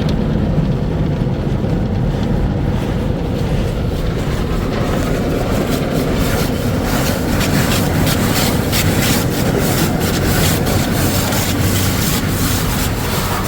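MacNeil automatic tunnel car wash equipment working on the car, with a steady low rumble. About five seconds in, a rushing, spattering wash noise builds in and keeps going.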